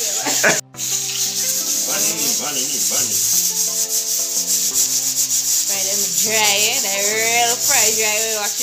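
Whole fish frying in hot oil in a pan, a steady sizzle with fine crackling. The sound cuts out for a moment just under a second in, and a person's voice comes in briefly around two seconds and again from about six seconds in.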